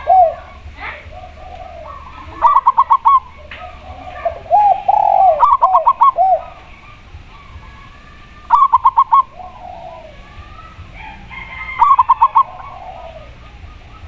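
Spotted dove and zebra dove calling together: a short run of rapid, clipped cooing notes comes back about every three seconds, and lower, drawn-out coos fill the gaps between runs.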